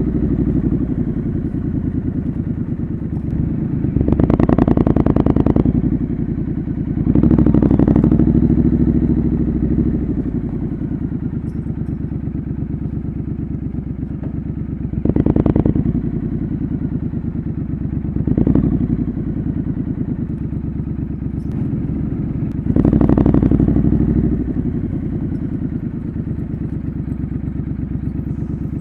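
Triumph Scrambler 900's parallel-twin engine running through a homemade exhaust while riding, opened up briefly five times, each a short louder surge over a steady low exhaust note.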